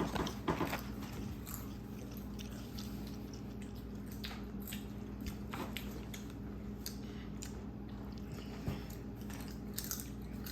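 Someone crunching and chewing potato chips: scattered sharp crunches, most of them in the first second, then quieter chewing.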